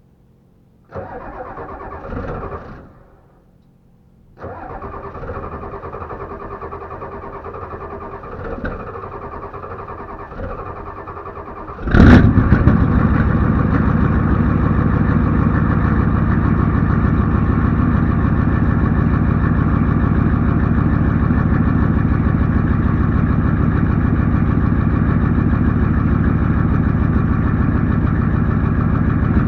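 1993 Ford F-350's naturally aspirated 7.3 IDI diesel on a cold start. The starter cranks briefly about a second in, then cranks again for several seconds from about four seconds in. The engine catches with a loud burst about twelve seconds in and settles into a loud, steady diesel idle.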